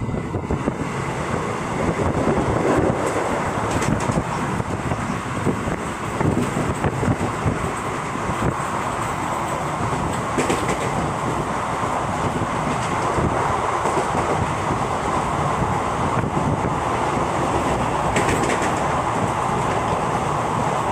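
Running noise of a moving passenger express train heard from on board: a steady rumble and rattle of wheels on the rails, with a few sharper clicks.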